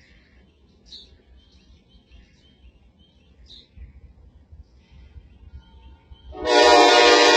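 Birds chirping faintly, then about six seconds in the excursion train's locomotive horn starts a loud, sustained blast.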